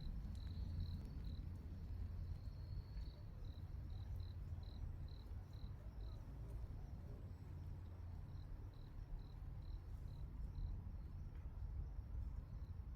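A night-singing insect chirping in short high pulses, about three a second, with brief trills near the start, pausing midway and then starting again. A steady low rumble runs underneath.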